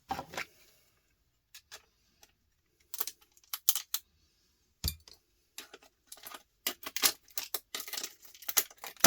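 Scattered sharp clicks and clinks of small electronic parts and tools being handled while a circuit board is stripped for scrap, with one heavier knock about five seconds in.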